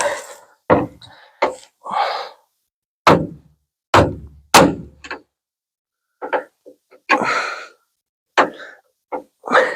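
A big hammer striking the vent window channel in a 1950 Ford F1 door, about ten irregular blows, driving up the channel that sits too low.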